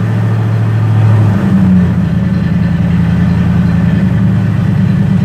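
Dodge 318 (5.2 L) throttle-body V8 running cold, which makes it hesitate; its engine speed steps up about a second and a half in, then holds steady.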